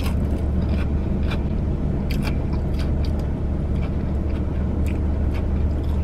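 Chewing of a fried sushi roll, with small crunchy clicks scattered through, over the steady low hum of a car running.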